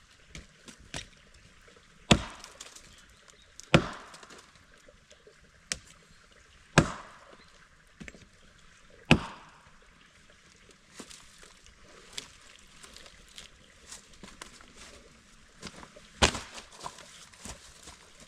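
Dry firewood being broken up by hand: five loud, sharp wooden cracks a few seconds apart, with lighter knocks and snaps between them.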